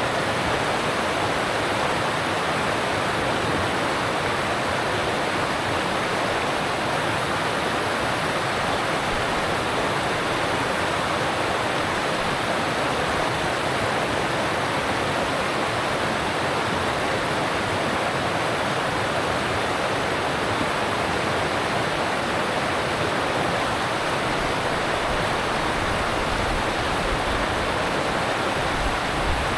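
Alpine mountain stream rushing steadily over rocks, a constant even rush of water.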